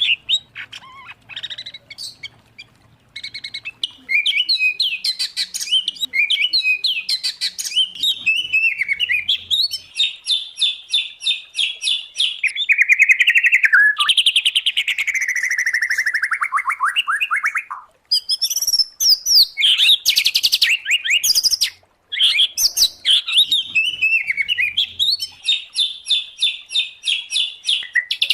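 Songbirds singing in a mixed recording of white-rumped shama, oriental magpie-robin and greater green leafbird: fast chattering trills and varied whistles, one long falling whistled sweep about halfway through, and two brief pauses later on.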